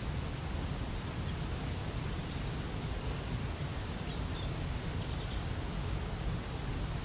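Waterfall water rushing steadily, with a few faint bird chirps about halfway through.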